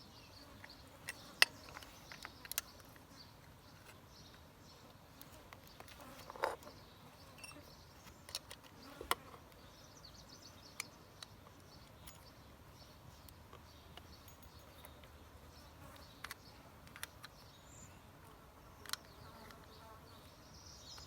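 Sparse clicks and knocks of tools and small metal parts being handled during work on a starter solenoid, the sharpest about a second and a half in, over a faint steady insect buzz.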